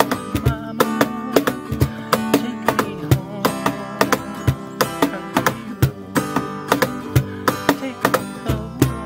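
Acoustic guitar music, plucked and strummed, over a steady percussive beat, with no singing.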